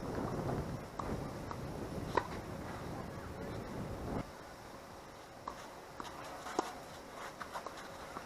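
Wind buffeting the camera microphone for about four seconds, then dropping off suddenly, with a few sharp knocks scattered through, the loudest about two seconds in.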